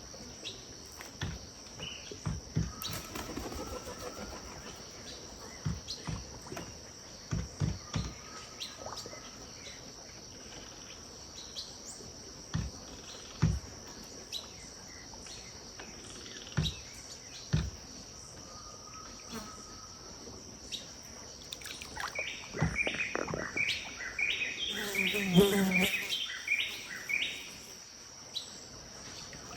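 Riverbank ambience of birds calling over a steady high-pitched insect drone. Scattered short bird notes and soft low knocks run through it, and near the end a bird gives a loud run of rapid repeated calls lasting a few seconds.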